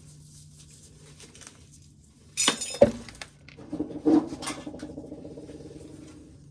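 Hard clattering of corn being handled: a loud sudden rattle about two and a half seconds in, then a rattling run that dies away near the end.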